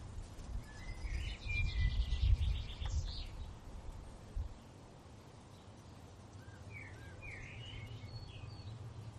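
Birds chirping outdoors in two short trilling phrases, one near the start and one near the end. A low rumble runs under the first half and dies away about halfway through.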